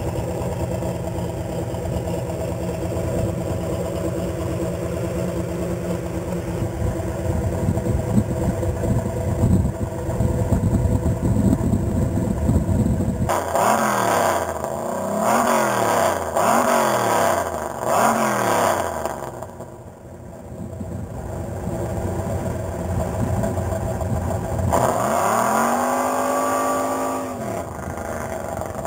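Pontiac Trans Am WS6's LT1 5.7-litre V8 idling, then revved four times in quick succession about halfway through. Near the end it pulls away with one longer rise and fall in engine speed.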